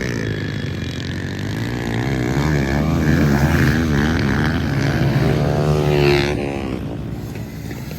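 Dirt bike engines revving up and down as they ride past, more than one at a time. The sound is loudest in the middle and eases off after about six seconds.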